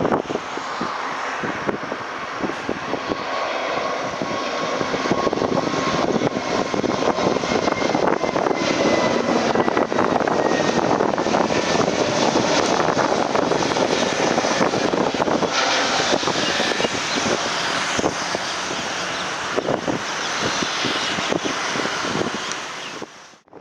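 Jet airliner engines running loud and steady as the plane passes, with a faint whine that falls slowly in pitch midway. The sound stops suddenly near the end.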